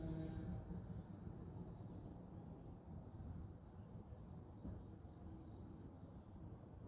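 Faint outdoor ambience: small birds chirping here and there in the distance over a low background rumble. A steady hum made of several tones fades out in the first half second.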